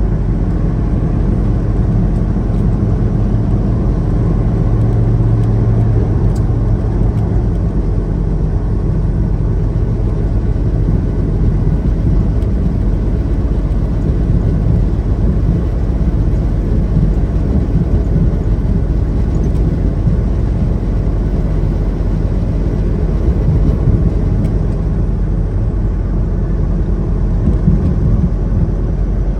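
Semi-truck driving on the highway, heard from inside the cab: a steady engine drone with road and tyre noise.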